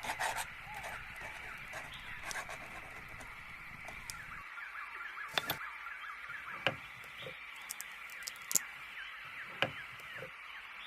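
Small birds chirping continuously in a dense chorus, with half a dozen sharp taps or clicks scattered through it.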